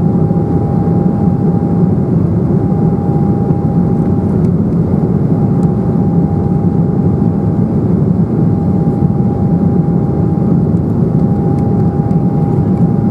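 Cabin noise of an Embraer 195 in flight: a steady, loud rumble of airflow and its turbofan engines, with a thin whining tone on top that drops out briefly a few times.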